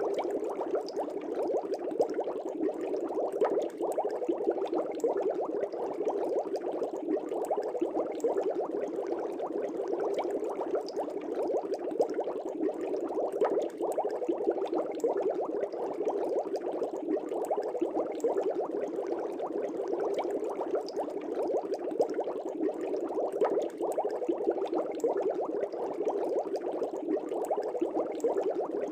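Fish tank air bubbles rising and burbling at the water surface in a steady, continuous stream.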